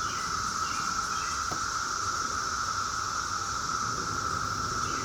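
Steady insect chorus: an unbroken trill holding at two pitches, one mid and one high, with a faint tick about a second and a half in.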